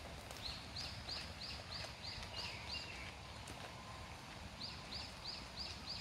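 A bird calling in the woods: a quick series of short, high arched notes, about three a second, in two runs with a pause of about a second and a half between them, over low outdoor background noise.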